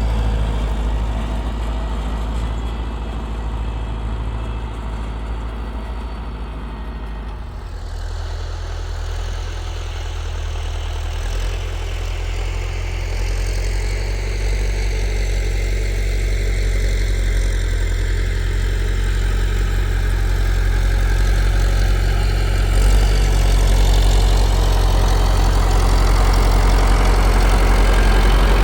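Tractor engine running steadily. Its note changes about seven seconds in, then it grows gradually louder.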